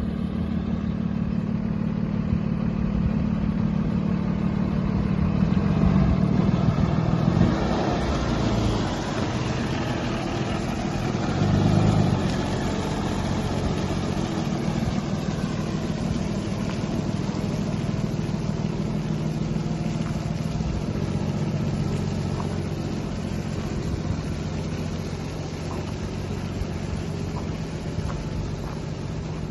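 Freightliner M2 106 truck's Cummins 6.7-litre diesel engine running steadily at low revs, with a steady hiss over it; it swells louder for a moment about six seconds in and again about twelve seconds in.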